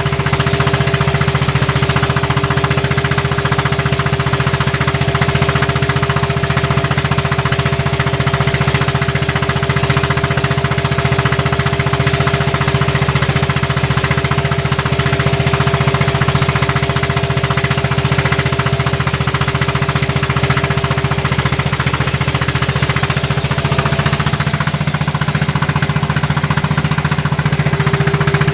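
Single-cylinder diesel engine of a klotok, a small wooden motor boat, running steadily with a loud, rapid pounding beat. Its note shifts slightly near the end.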